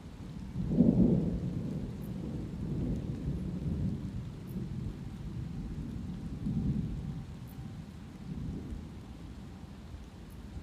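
Thunder rolling over light rain: a loud peal starts about a second in and rumbles on in several swells that die down toward the end, with a steady light rain hiss beneath.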